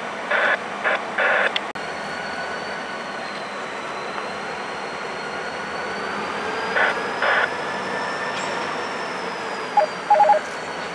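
Steady running noise of a CN train, with short electronic beeping tone bursts: three near the start, two around the middle and a quick two-tone pair near the end.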